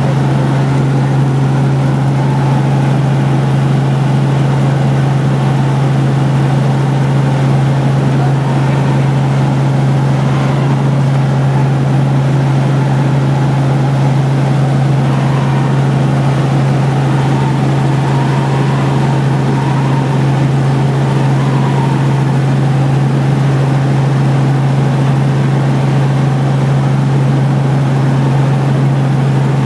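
Helicopter in flight, heard from inside the cabin: a loud, steady drone of rotor and engine with a constant low hum.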